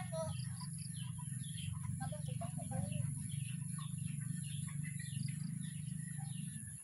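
Birds chirping, many short overlapping calls, over a steady low hum and a constant high-pitched whine.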